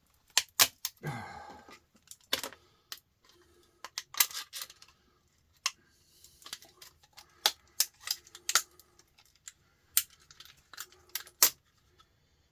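Irregular sharp clicks, knocks and rattles of hand tools on the metal and plastic parts of a small appliance being prised apart to free its motor, with a short scrape about a second in.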